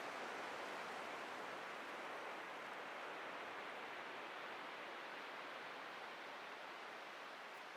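Atlantic ocean surf washing on a beach: a steady rushing hiss that slowly fades as the wash eases off.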